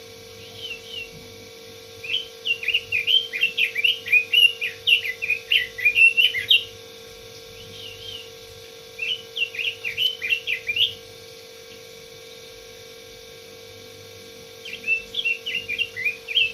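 Pekin robin (red-billed leiothrix) singing vigorously in rapid, warbling phrases of quick up-and-down whistled notes. There are three bursts: a long one from about two seconds in, a shorter one around the middle, and another starting near the end. A steady low hum runs underneath.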